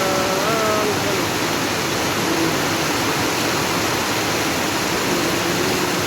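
Heavy typhoon rain pouring down steadily, a dense, even hiss.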